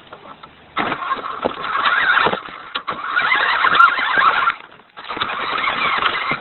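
Radio-controlled Hummer truck's motor whirring in three bursts of throttle, each about one and a half seconds long, its pitch wavering as it speeds up and slows.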